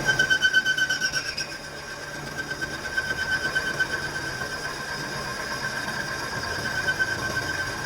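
A workshop machine running with a steady high whine and a fast rhythmic clatter, loudest in the first second and a half, then settling to a lighter, even running sound.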